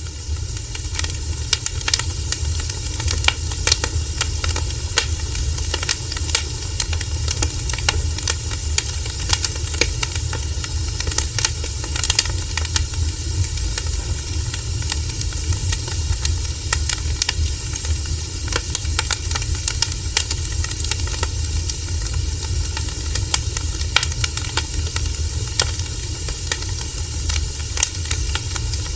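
Burning wood fire crackling, with frequent small irregular pops over a steady hiss and low rumble.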